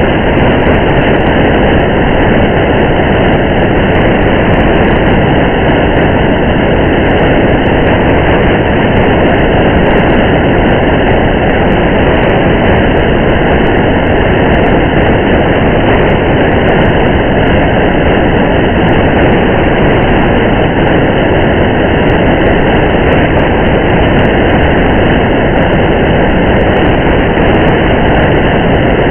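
Steady rain and tyre road noise of a car driving on a wet highway, a dull, even rush with no change, with faint scattered raindrop ticks.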